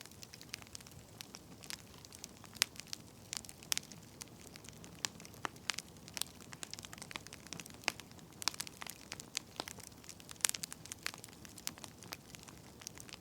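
Burning firewood crackling, with irregular sharp pops and snaps over a faint steady hiss.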